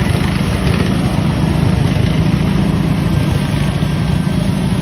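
Simplicity Legacy garden tractor engine running steadily with an even, low drone.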